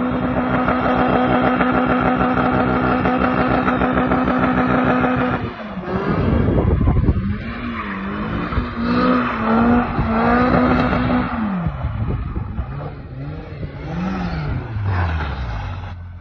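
Lada VAZ-2107's swapped-in 16-valve four-cylinder engine held at steady high revs for about five seconds, then let off, blipped up and down several times, and falling back toward idle near the end.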